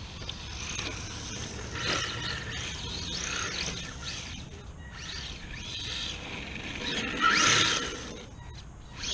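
Redcat Thunder Drift electric RC drift car being driven and drifted, its motor whine rising and falling in pitch with repeated bursts of throttle; the loudest burst comes about seven seconds in.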